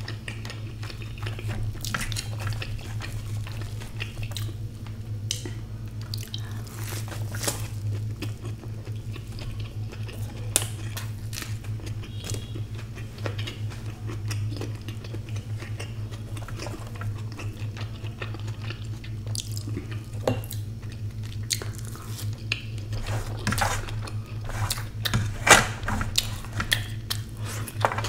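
Close-miked chewing and wet mouth smacks of a person eating egg omelette, with scattered sharp clicks and a run of louder clicks near the end, over a steady low hum.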